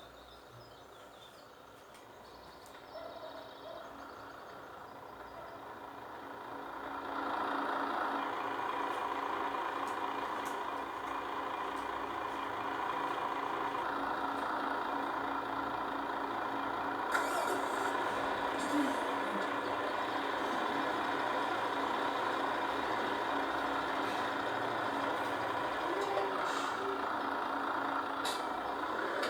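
An engine running steadily, growing louder over the first several seconds and then holding an even drone.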